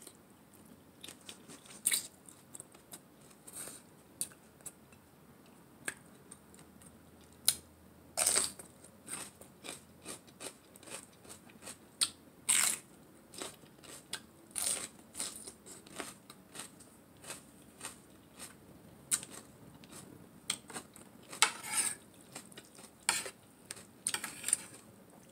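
Close-up eating sounds: crunchy chewing and biting of raw shredded carrot salad and a raw mini sweet pepper. Irregular crisp crunches and wet mouth clicks, a few of them louder.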